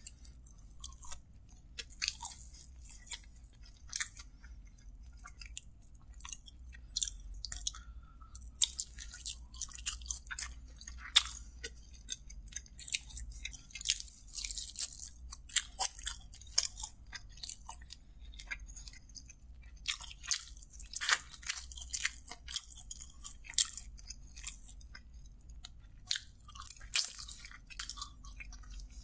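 Close-miked chewing and wet mouth clicks of a man eating kottu roti and sauced fried chicken drumsticks with his hand, biting and tearing meat off the drumsticks. Many short, sharp smacks and crackles come irregularly throughout, with denser clusters around the middle and near the end.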